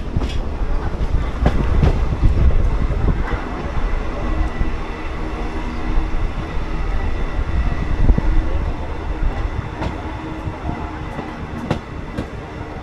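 Passenger train 14522 heard from on board: a steady low rumble of the running coach, with occasional sharp clicks.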